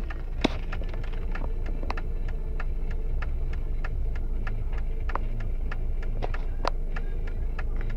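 Steady low rumble of a motor vehicle heard from inside, with a rapid run of sharp ticks and pops, several a second; a few louder pops come about half a second in, past the middle and near the end.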